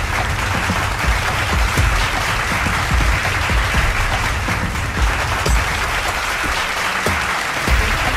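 Studio audience clapping steadily over music with a bass beat.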